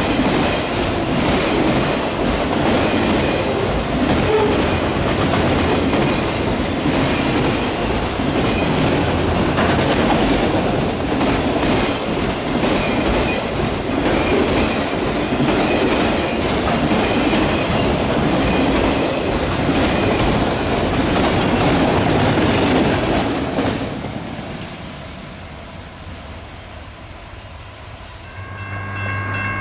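Freight train cars rolling past, wheels clicking rhythmically over the rail joints, until the train clears about 24 seconds in and the sound fades. Near the end a steady chord of high tones begins with a low hum beneath it.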